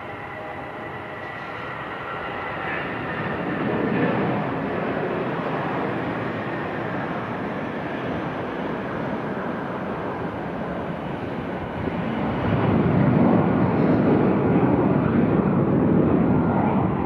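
Boeing 737-800's CFM56 jet engines running: a high whine over a broad rush, which swells about four seconds in and grows louder again to a steady roar about twelve seconds in.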